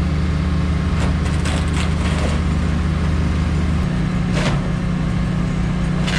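Small excavator's engine running steadily with a deep, even hum; its low note changes about four seconds in, and a few faint knocks sound over it.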